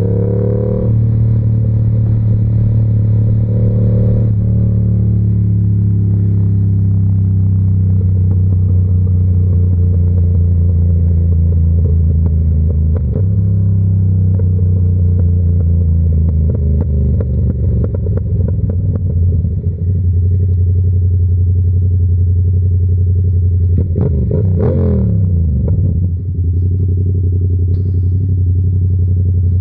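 Yamaha R7's 689 cc crossplane parallel-twin engine through an SC-Project exhaust, running at a steady low note under way. Near the end it revs up briefly and falls back, like a gear change.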